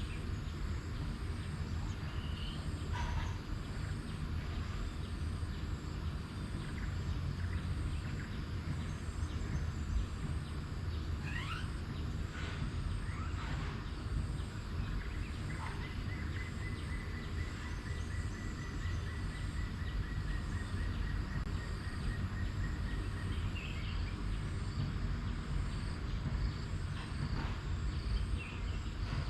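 Tropical forest ambience: scattered short bird calls over a steady low rumble and a faint high insect hum, with one long, even trill lasting about six seconds in the middle.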